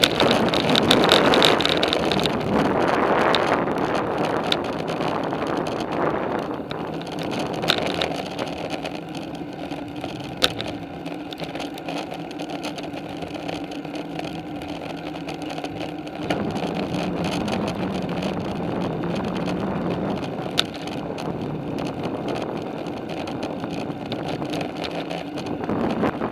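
Bicycle riding noise: a steady rush of wind on the microphone with tyre and drivetrain rumble, and a few sharp clicks or knocks.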